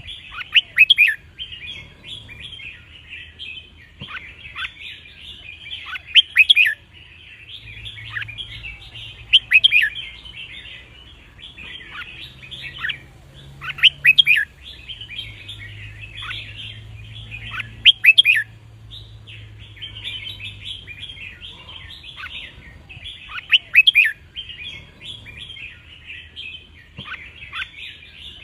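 Red-whiskered bulbul song: loud, short whistled phrases repeated every few seconds over constant twittering chatter.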